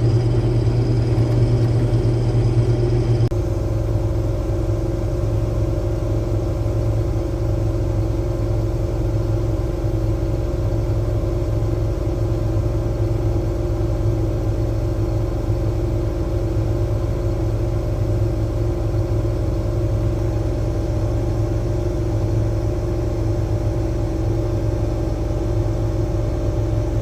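Combine harvester running steadily while cutting soybeans, a constant engine and machinery drone with a low hum. The tone changes slightly about three seconds in, then holds even.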